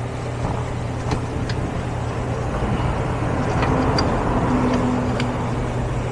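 Faint plastic clicks and knocks as an ignition coil is worked down into a spark plug tube and onto the plug, over a steady low hum of shop machinery.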